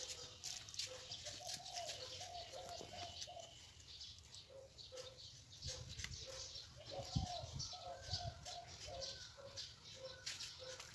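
Birds calling: long runs of short, low hooting notes repeated steadily, with faint higher chirps from other birds.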